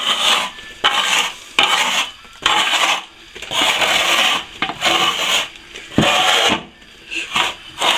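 A fresh sand-and-plaster patch, left to partly set, being scraped back level with a blade. There are repeated rasping strokes, about one a second.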